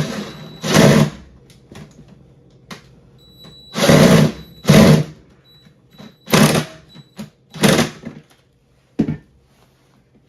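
Cordless drill/driver running in short bursts, about six of them, as it drives in a screw to fasten the ground wire.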